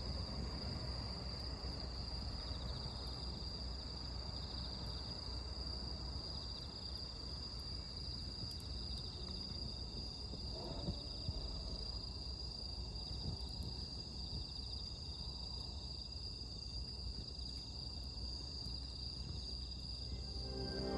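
Steady chorus of autumn crickets: a continuous high-pitched trill that does not let up, with a couple of faint clicks about halfway through.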